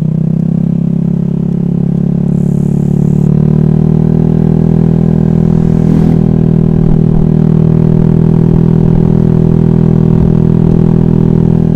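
Honda Vario scooter's single-cylinder engine running under way, its pitch rising a little over the first few seconds and then holding steady.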